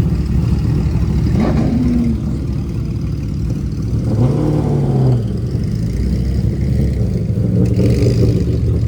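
Car engine running with a deep low rumble, revved briefly about a second and a half in and again around four seconds in.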